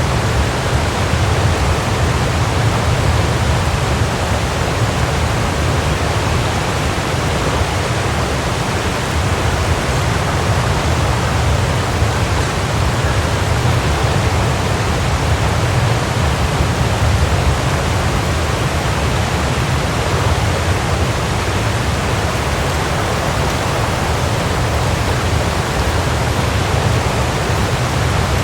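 Waterfall: a steady, even rush of falling water with a deep low rumble beneath.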